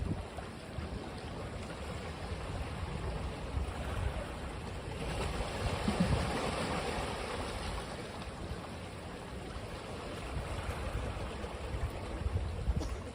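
Ocean waves washing on a beach: a steady wash of surf with one wave swelling and breaking about five seconds in, then fading back, with rumbling low-end noise that sounds like wind on the microphone.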